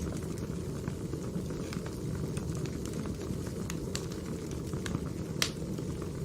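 Burning firewood crackling: a steady low rush of flames with scattered sharp pops, the loudest about five seconds in.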